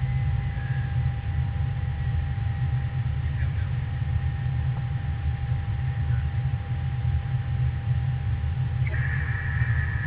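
Airbus A320 airliner on approach: a steady low rumble of engines and airflow with a constant thin hum. About nine seconds in, a brief high-pitched tone sounds for just over a second.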